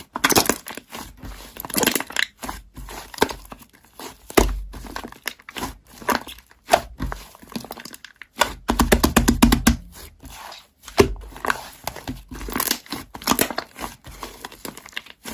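Slime being played with by hand: irregular crinkly crackles and clicks, with a dense run of rapid crackling about nine seconds in.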